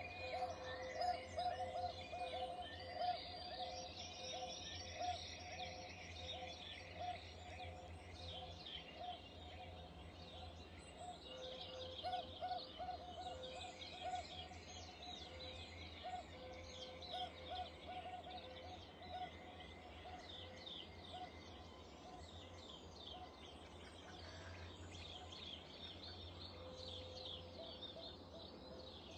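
Small garden birds calling and chirping together, many overlapping short high notes, over a lower note repeated in quick stuttering runs and a faint steady low hum.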